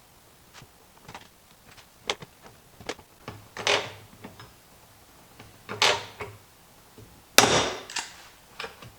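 Tool work on the plastic lid ring of a compost tumbler during a rivet repair: scattered sharp clicks and knocks, with three louder noisy scrapes of about half a second each, about three and a half seconds in, near six seconds and about seven and a half seconds in, the last the loudest.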